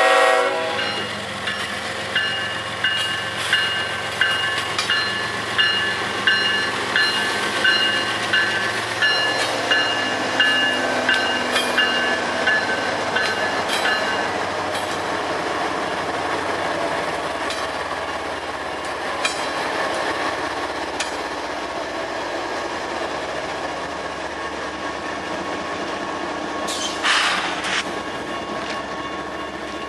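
Norfolk Southern diesel freight train rolling past at close range, the locomotives and then a long string of coal hopper cars going by with steady wheel-and-rail noise. For the first half a regular ringing clank comes about every two-thirds of a second. A short high wheel squeal sounds near the end.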